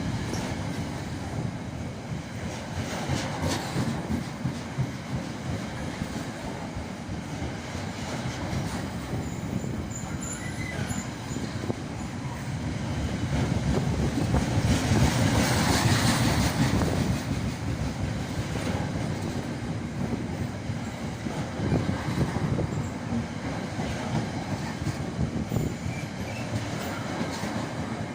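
Freight train hauled by a Class 66 diesel locomotive rolling past, its wagon wheels clattering over the rail joints with some wheel squeal. It swells to its loudest about halfway through.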